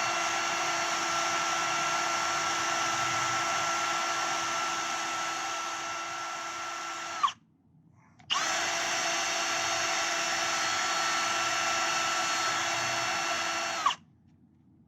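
Handheld electric power tool running at a steady speed with an even whine and hiss, in two runs of about seven seconds each. It stops for about a second near the middle and cuts off shortly before the end.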